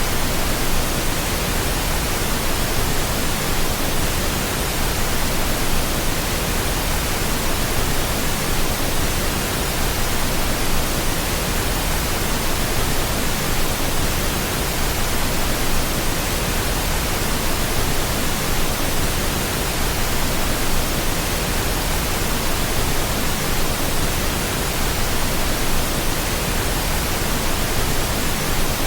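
Steady, unbroken pink noise: an even hiss across all pitches that does not change.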